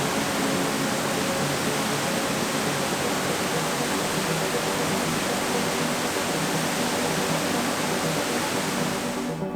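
Steady rushing water, like a mountain stream or waterfall, under quiet background music. The water sound cuts off sharply near the end, leaving only the music.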